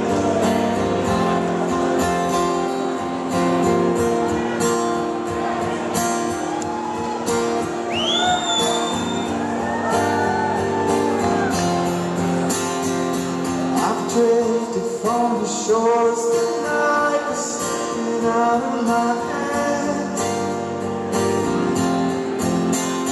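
Live band music in a large hall: guitar with a male voice singing. There is a brief rising whistle about eight seconds in.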